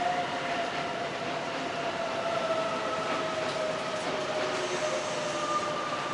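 Hanshin 1000 series electric train running, with a faint whine that slowly falls in pitch over a steady rushing noise.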